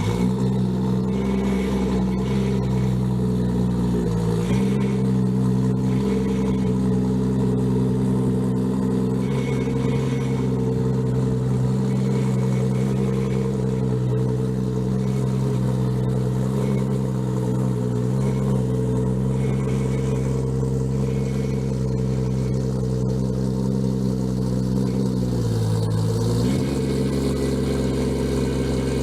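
Toyota Supra engine idling steadily after a cold start. Its idle speed dips briefly and recovers three times: near the start, about four seconds in, and near the end.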